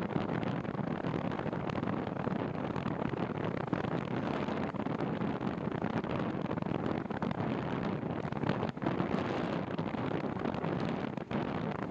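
Steady wind buffeting the microphone of a moving bicycle rider, a dense rushing noise with brief dips a couple of times near the end.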